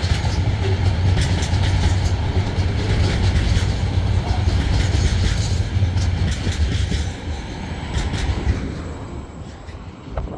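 Freight train's container flat wagons rolling past, a steady low rumble with wheels clicking over the rail joints. The last wagon goes by and the sound fades away over the final few seconds.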